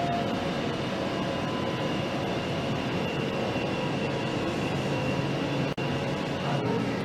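Steady mechanical hum and noise of factory machinery, with a few steady tones held through it; the sound drops out for an instant about six seconds in.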